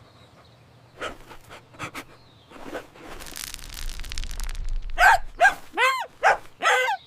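Cartoon dog sound effects: a quick run of about six short barks, each rising and falling in pitch, starting about five seconds in, after a few soft clicks and a brief hissing rush.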